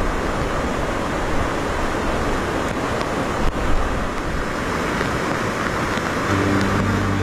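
A steady rushing noise, with a brief knock about three and a half seconds in. Music with low held notes comes in near the end.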